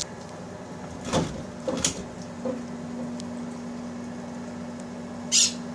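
Microwave oven being handled: a click, two loud knocks like its door, another click, then a steady low hum as the oven runs. A short hiss comes near the end.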